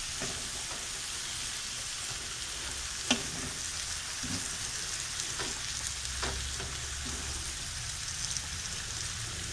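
Cabbage, sausage and bacon sizzling steadily in a stainless steel pan as they are stirred, with a few knocks of the utensil against the pan, the sharpest about three seconds in.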